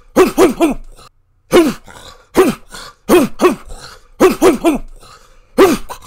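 Big dog barking loudly: about eleven short barks in quick bursts of one to three, each bark dropping in pitch.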